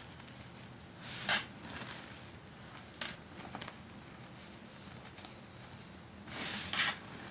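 Slabs of gym chalk crunching and crumbling: two louder crunches, one about a second in and one near the end, with a few small crackles between.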